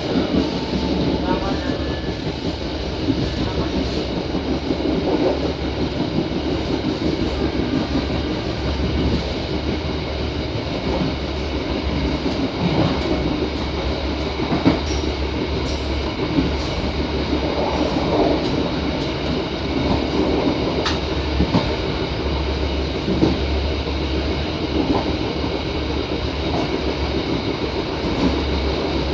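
Train running along the track, heard from the rear of the last carriage: a steady rumble of wheels on rail, with scattered short clicks.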